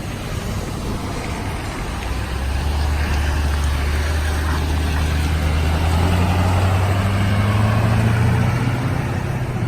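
2009 GMC 5500 4x4 bucket truck's engine pulling away. It gets louder about two seconds in, and its pitch climbs a little as the truck picks up speed.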